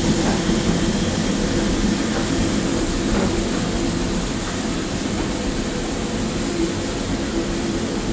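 Passenger coaches of a heritage steam train rolling past on the rails, a steady rumble of wheels and running gear that grows slightly quieter toward the end.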